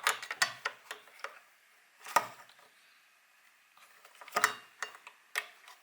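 Kitchen handling sounds: scattered light clicks and knocks of dishes and utensils being set down and moved. There is a louder single knock about two seconds in and a small cluster of them past the middle.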